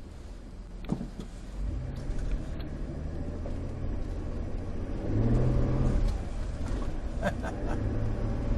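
Car engine pulling away and accelerating, its low note stepping up twice, with a sharp click about a second in.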